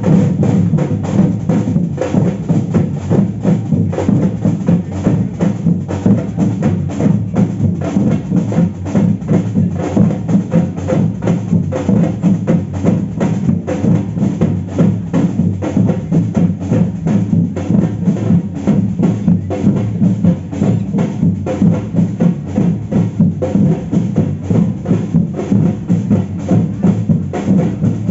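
Samba percussion band playing a continuous, driving batucada rhythm on drums, with the deep bass drums strongest.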